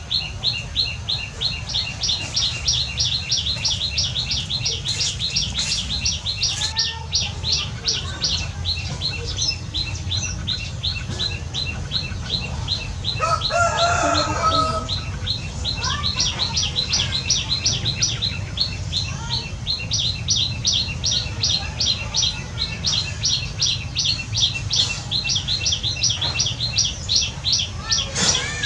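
A bird chirping rapidly and steadily, several high chirps a second, with a break around the middle. There is a brief lower call about fourteen seconds in, over a steady low rumble.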